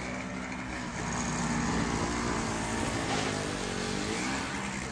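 A motor vehicle's engine running close by, a steady low hum that shifts slightly in pitch, over a hiss of background noise.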